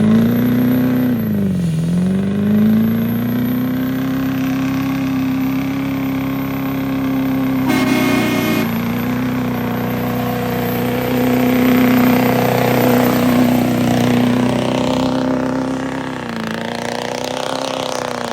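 Big truck's engine revved and held at high revs, its pitch dipping briefly near the start before climbing back and holding steady. A short horn blast sounds about eight seconds in.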